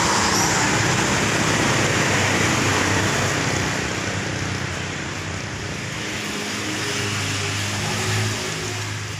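Steady rushing noise of a passing motor vehicle, fading after about three and a half seconds, then a low engine hum that swells briefly near the end.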